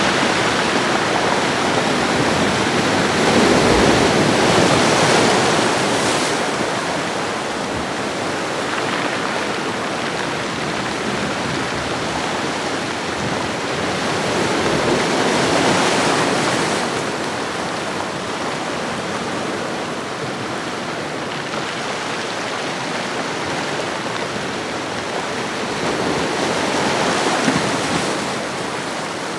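Ocean waves washing onto a shoreline: a continuous hiss of surf that swells and recedes in slow surges, peaking about 4 seconds in, again around 16 seconds and near the end.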